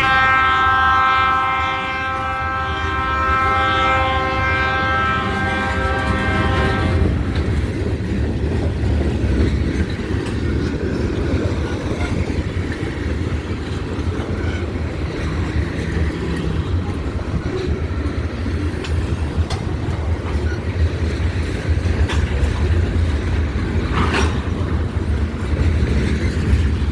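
Delmarva Central Railroad freight locomotive's air horn sounding one long blast of several tones for about seven seconds. The train then rumbles past with its wheels clacking over the rail joints, and wind buffets the microphone.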